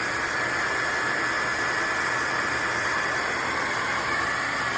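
Shark HydroVac MessMaster cordless wet-dry vacuum mop running steadily: a hiss of suction airflow with a steady high motor whine.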